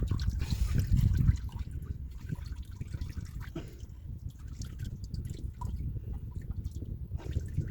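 Used engine oil draining out during an oil change, dripping and trickling in quick, irregular drops, with a low rumble in the first second or so.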